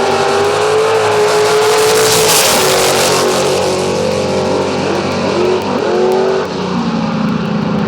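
Street race cars running hard at full throttle, engines revving high with the engine note climbing and dropping back as they change gear.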